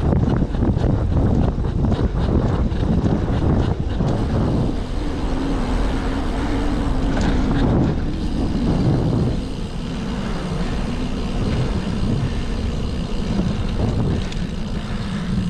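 Wind rushing over the microphone of a camera on a moving bicycle, mixed with road traffic. A low, steady engine hum from a vehicle stands out for a few seconds in the middle.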